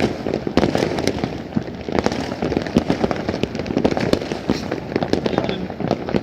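Many fireworks going off at once: a dense, continuous crackle of rapid, overlapping bangs and pops with no let-up.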